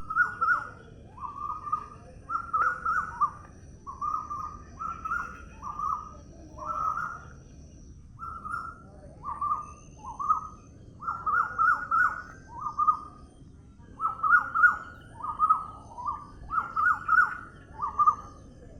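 A bird calling over and over in short, slightly falling notes, about one or two a second, some bunched into quick clusters of three or four.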